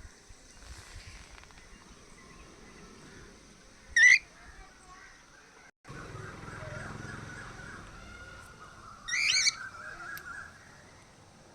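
Cockatiels calling: a short, sharp rising call about four seconds in and a longer burst of rising calls a little after nine seconds, over soft background chatter.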